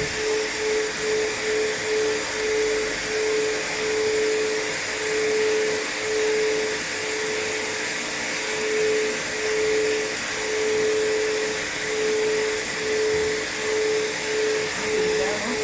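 Blow dryer running steadily while drying a cat's fur, a loud rush of air with a motor hum that keeps wavering and cutting in and out as the dryer is moved.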